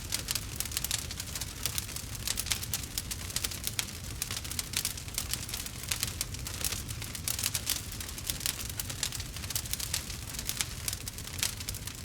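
Wood campfire crackling: a dense, irregular stream of small pops and snaps over a low, steady rumble.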